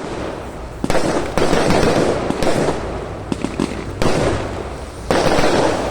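Fireworks going off: four sharp bangs, each followed by a spell of dense crackling that slowly dies away.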